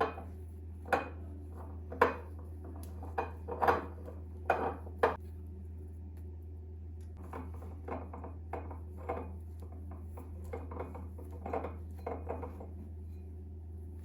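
Dishes and cutlery clinking and knocking as they are handled and set down, a string of short separate clinks that are louder in the first few seconds and softer later, over a steady low hum.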